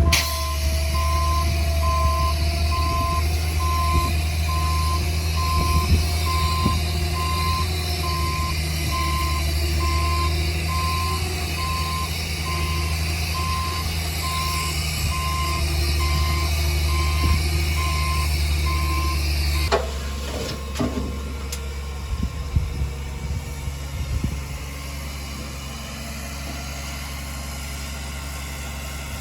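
Reverse-warning beeper on a diesel earthmoving machine beeping steadily about once a second over the engine's low running; beeper and engine load both stop about twenty seconds in, leaving the engine idling with a few knocks and clanks.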